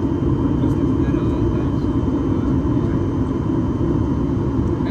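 Steady cabin noise of a Boeing 737 MAX 8-200 in flight: airflow and the drone of its CFM LEAP-1B engines, heard from a seat inside the cabin, at an even level with a faint high whine above it.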